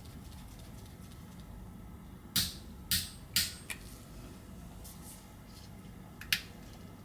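Small sharp clicks and taps of tools and small parts being fitted inside an iPhone 11 during reassembly: four in quick succession a little over two seconds in, then one more near the end.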